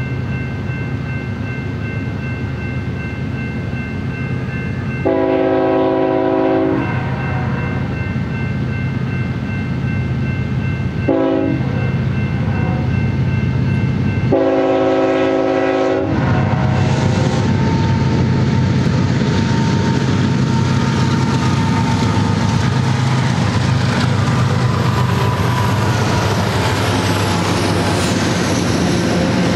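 BNSF GE ES44C4 diesel locomotive sounding its horn for a grade crossing: a long blast about 5 seconds in, a short one about 11 seconds in, and a long one about 14 seconds in, over the steady rumble of the approaching engines and a ringing crossing bell. From about 16 seconds in the locomotives pass and the double-stack intermodal cars roll by with a clattering of wheels on rail.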